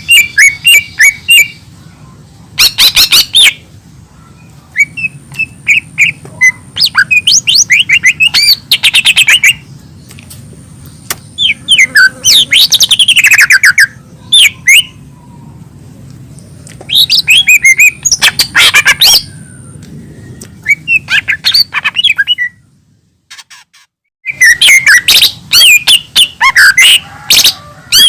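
Cucak ijo mini (a small leafbird) singing: loud bursts of rapid chirps, trills and twittering whistles, each a second or two long with short pauses between, and a brief silent break about five seconds before the end. A low steady hum runs under the song.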